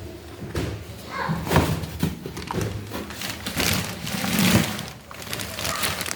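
Packaging and a boxed appliance being handled during unboxing: a string of knocks and thumps, with a louder stretch of rustling about two thirds of the way through.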